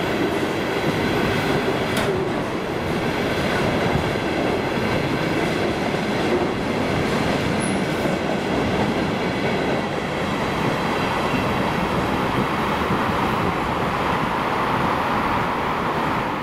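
Enclosed two-level car-carrier freight wagons rolling past on the rails: a steady rumble of wheels on track, a single click about two seconds in, and a faint high steady ringing above the rumble.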